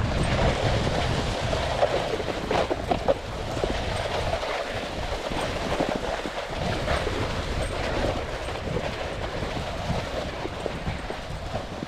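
Snowboard sliding over packed snow, a steady scraping rumble with scattered clicks and knocks.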